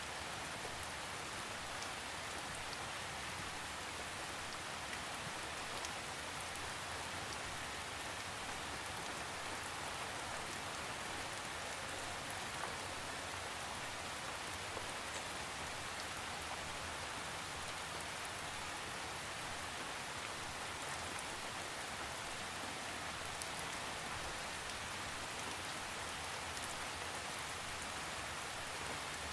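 Steady rain falling, with an even hiss and occasional faint individual drop ticks, no thunder.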